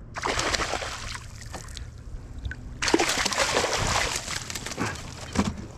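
Water splashing and sloshing in two bouts, the second longer: a freshly hooked flounder thrashing at the surface beside a kayak.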